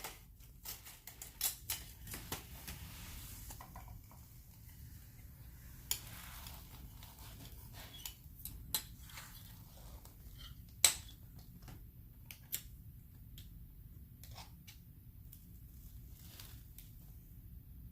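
Scattered light clicks and taps of small paint supplies being handled: a mixing tool, paint containers and a plastic palette, with one sharper click about eleven seconds in.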